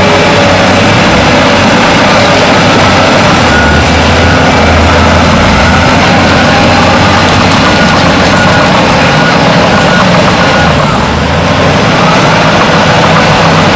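Heavy diesel engines of earthmoving machines running steadily under load, loud and continuous.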